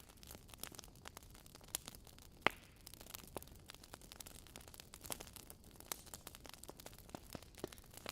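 Wood fire burning in a fireplace: soft steady hiss with irregular sharp crackles and pops from the logs, the loudest pop about two and a half seconds in.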